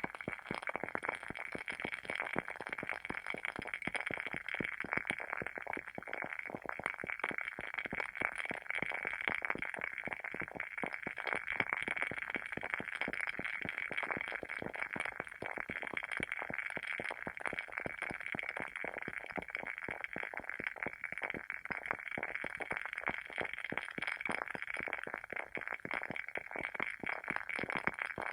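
WoodWick candle's wooden wick burning, crackling continuously with rapid small pops and snaps like a tiny campfire.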